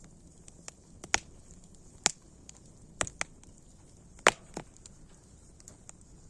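Campfire crackling: irregular sharp pops of burning wood, a few louder ones among many small ticks, over a faint steady hiss.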